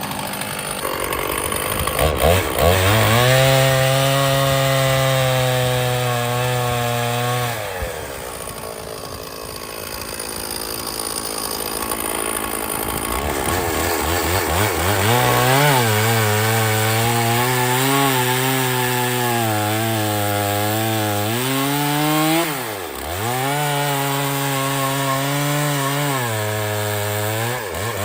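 Stihl 036 two-stroke chainsaw running at high revs while cutting through a log, its engine pitch wavering as the chain loads up in the wood. The revs sag in the middle and drop sharply once for a moment about 23 seconds in before picking back up.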